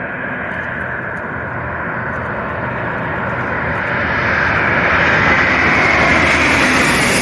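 Jet airliner on landing approach, its engine noise growing steadily louder as it draws closer, with the hissing upper part of the noise spreading higher.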